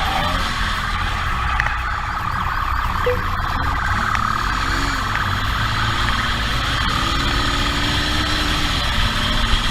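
Motorcycle engine running and revving during a high-speed pursuit, its pitch rising and falling, under a steady rush of wind noise on a helmet-mounted camera.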